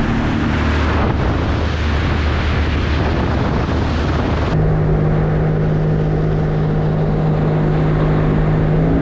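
Sea-Doo Spark Trixx jet ski's three-cylinder Rotax engine running steadily under way, with the rush of water and wind. About halfway through the hiss drops away and a steady engine hum stands out.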